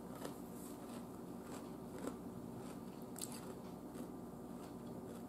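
A person chewing food, with a few faint crunches.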